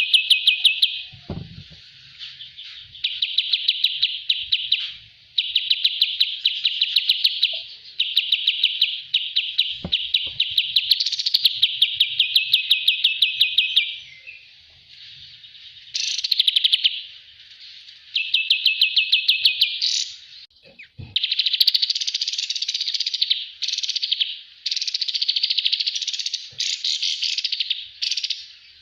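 Kapas tembak bird song: rapid rattling chirp trills in phrases of one to two seconds separated by short pauses. About two-thirds of the way in it changes to harsher, buzzier chatter.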